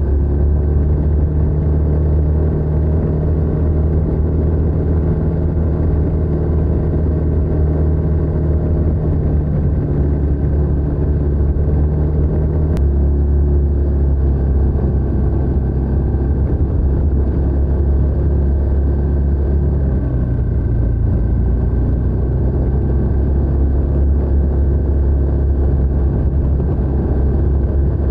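TVS NTorq 125 scooter's single-cylinder engine and stock exhaust running steadily while riding. The engine note drops a little about halfway through and again a few seconds later.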